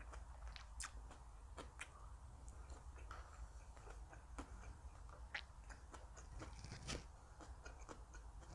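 A person chewing a mouthful of food close to the microphone, faint and irregular, with small crisp crunches and mouth clicks.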